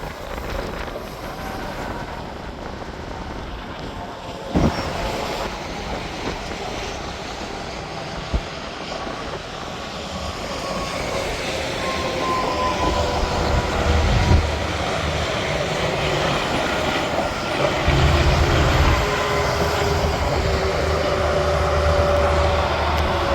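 Interstate highway traffic: trucks and cars passing with a steady rush of tyre and engine noise that builds louder in the second half, with a faint whine sliding slowly down in pitch.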